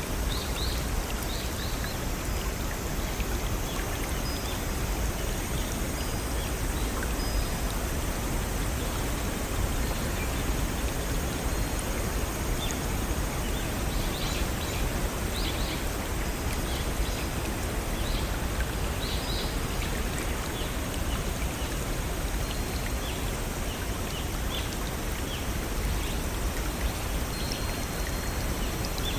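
Steady rush of flowing water from a small waterfall or brook, with scattered brief high ticks and chirps over it.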